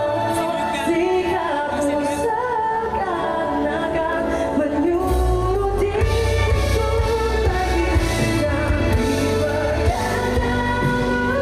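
Live pop music: a female singer's amplified voice over the band, with the bass and drums coming in heavier about five seconds in.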